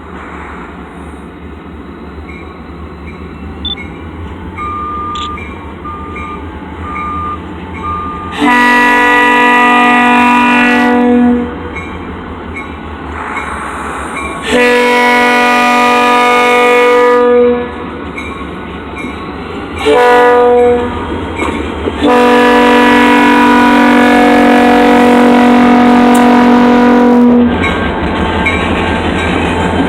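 Freight locomotive air horn sounding the grade-crossing signal as the train nears the crossing: two long blasts, one short, then a long final blast, with a faint regular crossing-bell ringing beneath it before the horn starts. Near the end the horn stops and the train's steady rumble and wheel noise take over.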